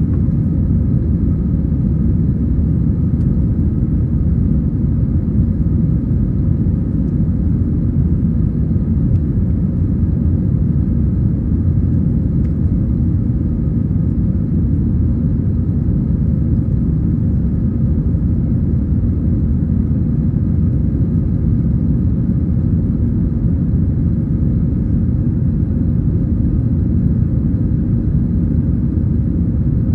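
Steady low rumble inside the passenger cabin of an Airbus A320-214, the sound of its CFM56 engines and airflow, running unchanged throughout.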